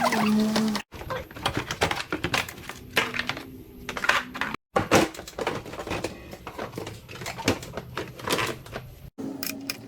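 Workshop clatter: a rapid, irregular run of clicks and knocks from tools and parts being handled, in short spliced clips that cut off abruptly about a second in, halfway through and near the end.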